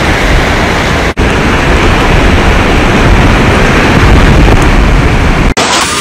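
Rainstorm wind buffeting the microphone over heavy rain: a loud, steady rush with a heavy low rumble. It breaks off sharply about a second in and again near the end, where the footage cuts.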